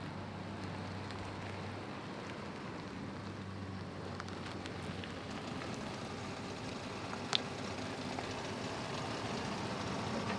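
Steady road noise inside a moving car's cabin, with a single sharp click about seven seconds in.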